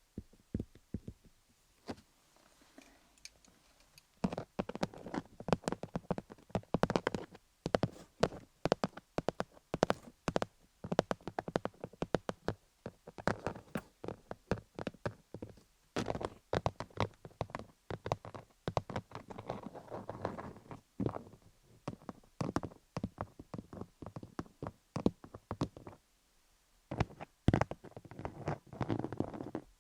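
Colored pencils tapping rapidly on a dummy head covered in cubic zirconia gems: quick clusters of light clicking taps with brief pauses, the longest pause a few seconds before the end.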